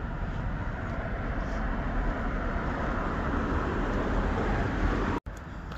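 Road traffic passing close by: a steady rushing of tyres and engines that grows a little louder, then cuts off abruptly near the end.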